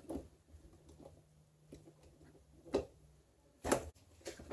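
Plastic clicks and knocks from the parts of a Nespresso-style brew unit being pushed and clipped back together, a few separate taps with the loudest near the end.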